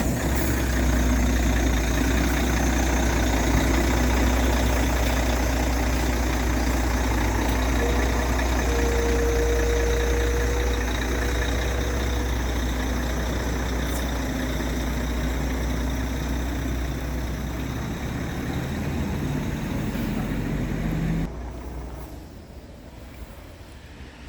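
Scania R tractor unit's diesel engine idling steadily just after being started, then switched off, cutting out suddenly a few seconds before the end.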